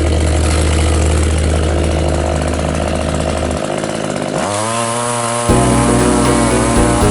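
Chainsaw engine running, revving up sharply about four and a half seconds in and then held at high speed with a wavering pitch.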